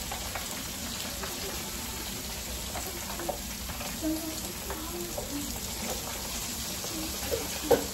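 Pork chops breaded in fish-fry coating frying in hot oil, with a steady sizzle.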